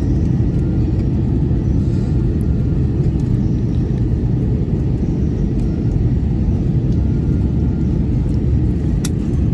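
Steady low rumble inside the passenger cabin of an Airbus A320 on approach: engine and airflow noise. A short click about nine seconds in.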